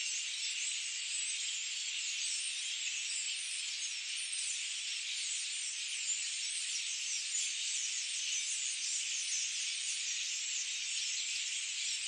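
Dense chorus of many small birds chirping and twittering at once, a continuous high-pitched wash with no low sounds and no single call standing out.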